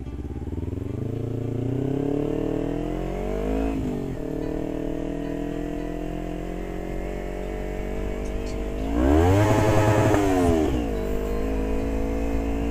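Motorcycle engine accelerating with its pitch climbing, dropping sharply at an upshift about four seconds in, then running steadily. About nine seconds in it revs up sharply and falls back, the loudest moment.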